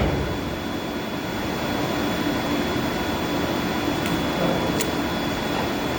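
Steady hum and hiss of boiler-house machinery running, with a faint constant high whine. A couple of faint clicks come about four and five seconds in.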